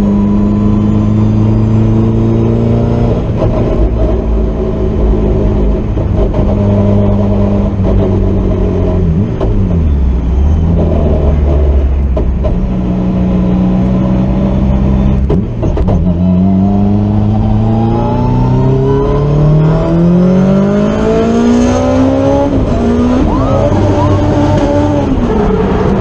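Honda S2000 drift car's engine running hard on the track, held at steady revs, then dropping briefly twice. After that it revs up over several seconds and rises and falls as the car is driven.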